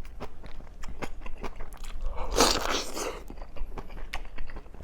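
Close-up chewing of wild matsutake mushroom: a string of crisp, irregular crunching clicks, with a longer, louder noisy stretch about two seconds in.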